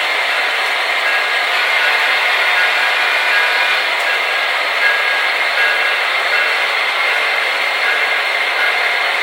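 Several HO scale model diesel locomotives' DCC sound decoders playing diesel engine sound together through their small speakers: a steady, thin-sounding drone with no bass.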